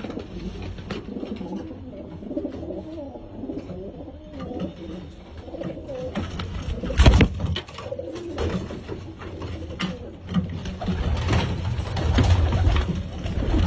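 Domestic pigeons cooing, a run of low wavering calls one after another. About seven seconds in there is a single sharp knock that is the loudest sound.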